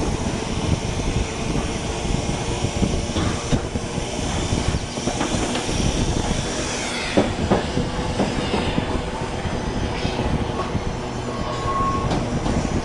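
Heritage electric tram running along its track, heard from on board: a steady rumble and rattle of the car and its wheels on the rails, with a short high wheel squeal about seven seconds in.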